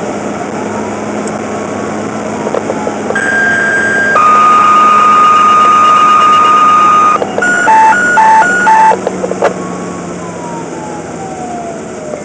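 Fire department radio dispatch tones: a short steady tone, then a longer, lower steady tone (a two-tone sequential page), then a quick alternating high-low alert tone. Behind them a siren wails slowly up and down.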